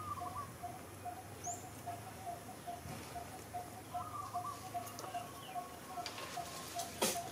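Birds calling: one short note repeated steadily about three times a second, with warbling trills and a faint high chirp over it, and a sharp click near the end.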